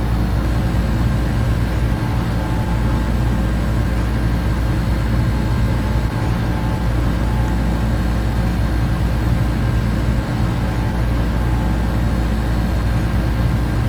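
Air conditioner and electric fans running together: a steady low hum under a broad, even whir, with a few faint steady tones and no change throughout.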